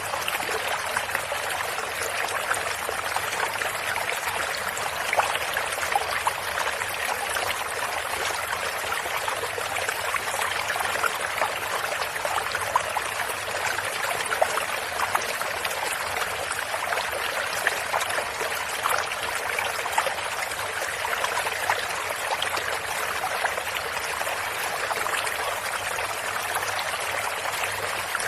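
Running water of a small stream or brook, a steady splashing trickle with many small bright splashes.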